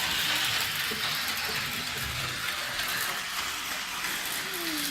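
Lionel O27 toy train locomotive running on its track, a steady whirring and rattling of its small electric motor, gears and wheels on the rails.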